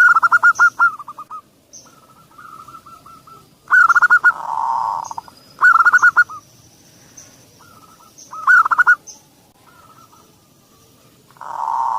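Zebra dove (perkutut) song: several short bursts of quickly repeated cooing notes. Twice a longer, lower, purring coo follows.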